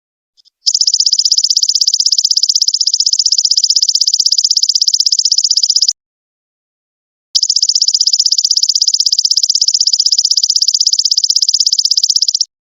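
Golden locust (belalang emas) insect calling: a loud, high-pitched, rapidly pulsing trill in two long runs of about five seconds each, broken by a pause of about a second and a half.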